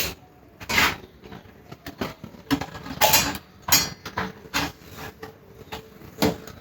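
Irregular knocks, clicks and rattles of hard objects being handled, several separate knocks spread unevenly across a few seconds.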